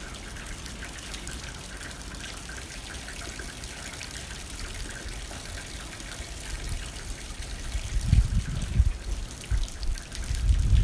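Rain hitting a window: a steady hiss dotted with the ticks of single drops. Low gusts of wind rumble in about eight seconds in and again near the end, louder than the rain.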